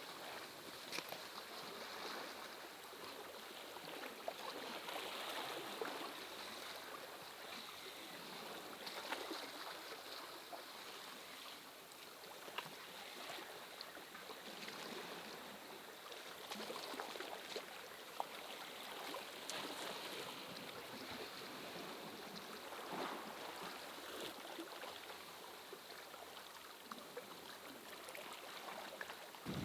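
Steady rain falling, a constant hiss of water noise with many small scattered drop hits.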